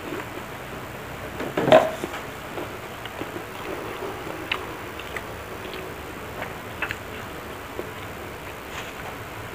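Close-up eating sounds: quiet chewing with small wet mouth clicks and smacks as the last bits of food are eaten, and one louder mouth sound a little under two seconds in.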